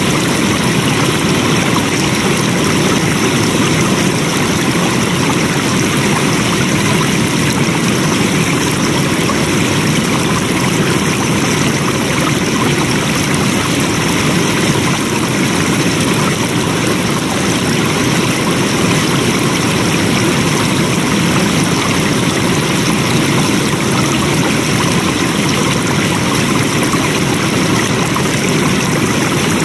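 Flowing water: a stream rushing steadily, loudest in its low rumble.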